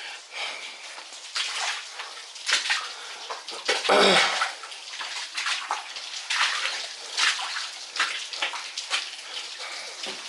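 Water splashing and sloshing in irregular bursts, one or two a second, with a louder one about four seconds in.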